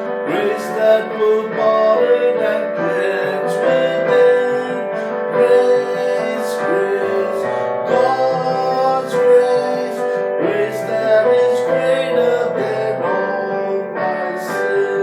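Piano music with singing.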